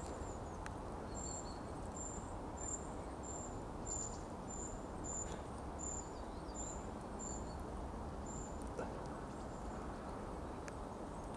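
A small bird gives a run of thin, very high chirps, about one every half to two-thirds of a second, which stop a few seconds before the end, over a steady low background hiss.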